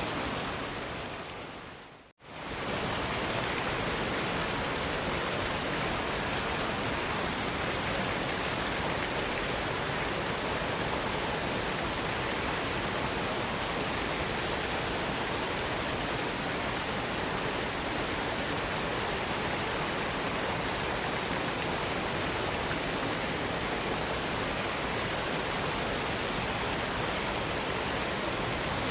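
Waterfall rushing, a steady even roar of falling water. About two seconds in it fades out to silence for a moment and comes straight back.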